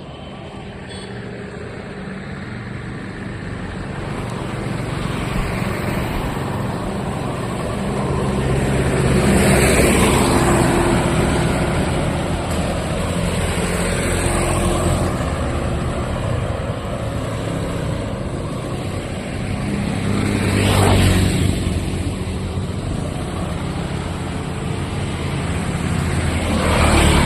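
Road traffic going by: a steady engine rumble with vehicles passing close, swelling three times, about a third of the way in, about three quarters in, and at the end.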